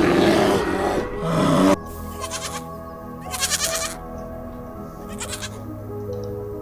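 An animal calling over background music, the call loudest in the first two seconds.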